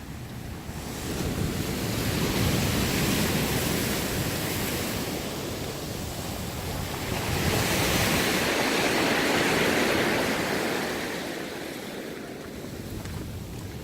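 Ocean surf washing in: two waves swell up and die away one after the other.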